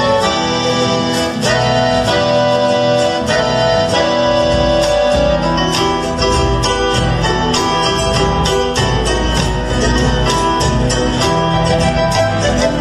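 Argentine folk music played with guitars, loud and steady with a regular strummed beat.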